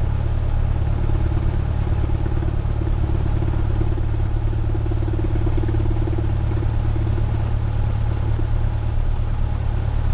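Cessna 172R's four-cylinder Lycoming IO-360 piston engine and propeller running steadily at low power, a constant drone inside the cabin.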